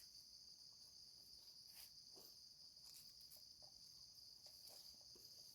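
Faint, steady, high-pitched insect chorus of crickets or cicadas, with a few soft clicks.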